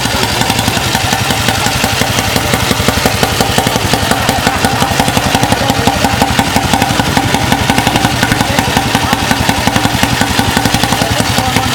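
Royal Enfield 500 single-cylinder four-stroke motorcycle engine idling with an even, steady beat.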